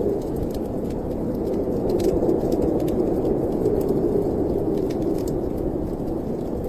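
Snowstorm wind blowing steadily in low, slowly swelling gusts, with sparse small crackles and pops from a wood fire.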